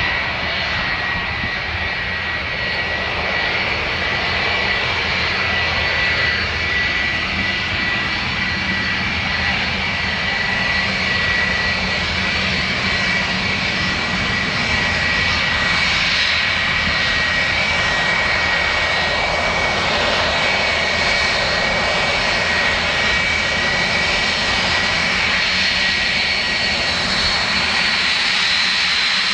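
Airliner engines running steadily, with a high whine held over the engine noise, slowly growing a little louder.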